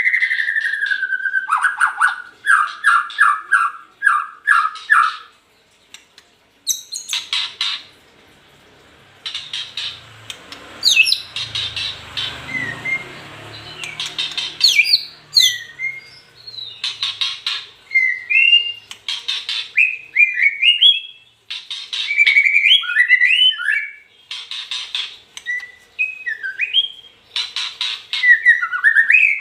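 White-rumped shama singing a long, varied song. It opens with a falling whistle and a run of quick repeated notes, then rapid rattling phrases, then short, swooping whistled notes toward the end.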